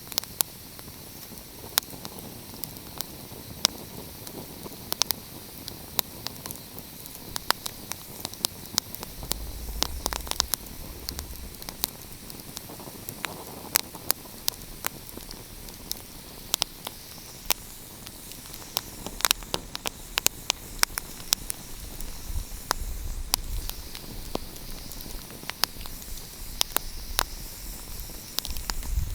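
Wood fire crackling, with frequent irregular sharp pops and snaps over a steady soft hiss. A low rumble comes and goes, about a third of the way in and again toward the end.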